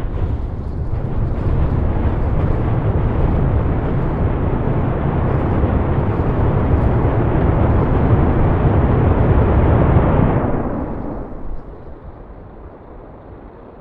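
SpaceX Super Heavy booster's 33 Raptor engines firing in a static fire test: a loud, deep, rushing noise that starts abruptly and holds steady for about ten seconds, then fades to a lower rumble.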